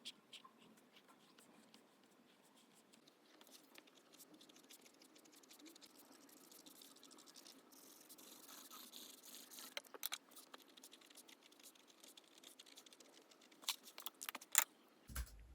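Faint pen scratching and drawing on paper, with a few sharp ticks and taps of the pen and stationery being handled, several close together near the end.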